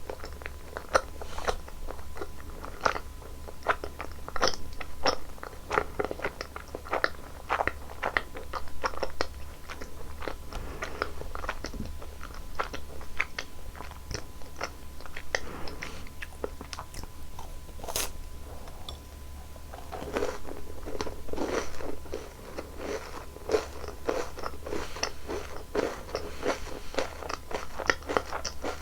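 Close-miked eating of Baskin-Robbins ice cream mochi: bites and chewing, with many short, crisp crackles and smacks and a single sharp click about eighteen seconds in.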